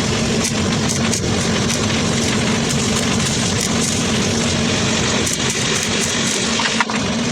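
Arc welding: the arc crackling and sputtering steadily, with many small pops and a steady low hum underneath.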